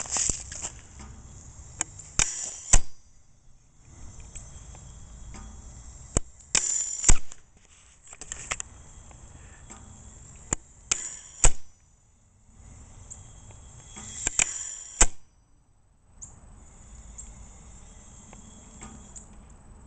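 A vintage Zon propane bird-scare cannon cycling with its sparker removed, so there is no blast. Each cycle is a few seconds of gas hiss that ends in sharp mechanical clicks as the valve releases, then a moment of quiet, repeating about every four seconds, four or five times.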